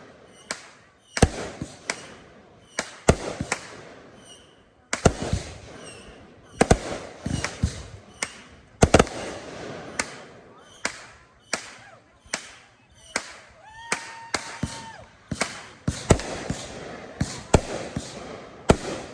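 Consumer and display fireworks going off: 3-inch artillery shells and 500-gram cakes. Sharp booms come in an irregular string, about one or two a second, with crackling between them. A steady tone lasting about a second and a half sounds about two-thirds of the way through.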